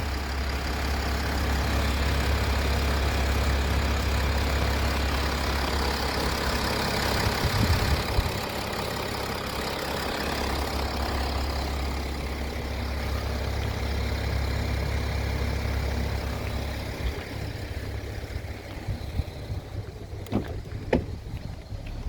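BMW 5 Series engine idling steadily while it gets a hydrogen carbon-cleaning treatment through the air intake. Its low running sound fades about three quarters of the way through, and a few sharp knocks follow near the end.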